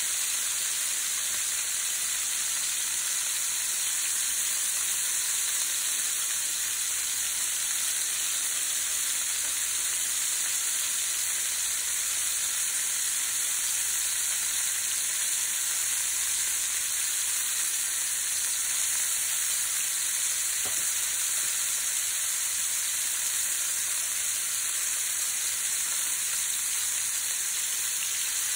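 Chicken leg quarters sizzling steadily in hot vegetable oil in a frying pan on high heat.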